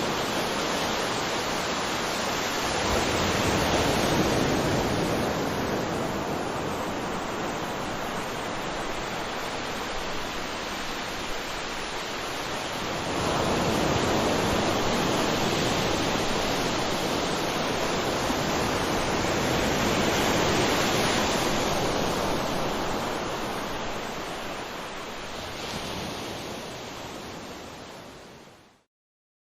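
Waterfall: a steady rush of falling and splashing water that swells and eases a few times, then fades out to silence near the end.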